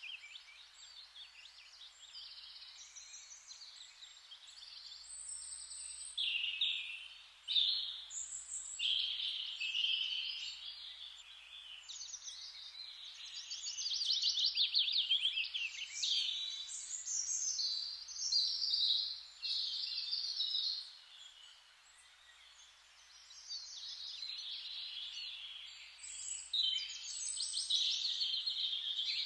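Songbirds singing in a chorus of overlapping trilled and chirping phrases, all high-pitched, with a short lull about two-thirds of the way through.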